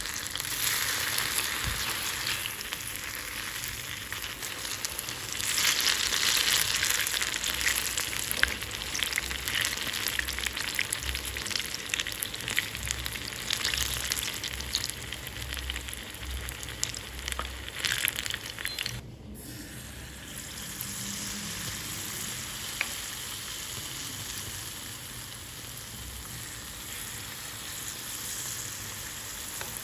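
Food frying in hot oil: a steady sizzle with scattered crackles and pops. It is louder through the first part, drops out for a moment about two-thirds of the way in, then carries on more quietly.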